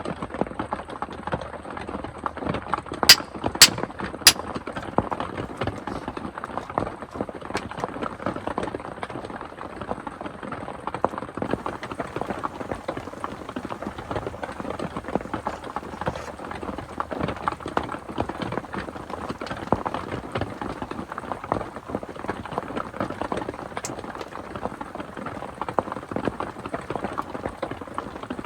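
Rain falling steadily in a dense, irregular patter, with three sharp clicks about three to four seconds in.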